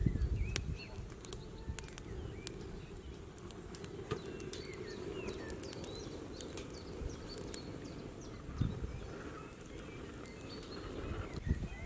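Small birds chirping on and off over a steady low rumble, with a few dull thumps, the loudest right at the start and another about three-quarters of the way through.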